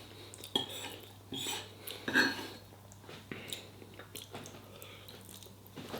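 A person chewing a mouthful of food, with a few small clicks and soft knocks scattered through.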